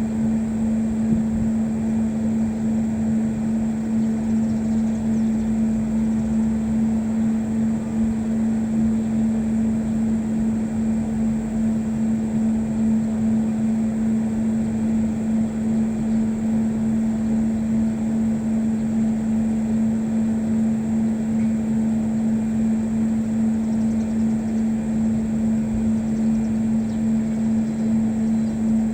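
A steady machine drone with a constant low hum over a rumble, unchanging throughout.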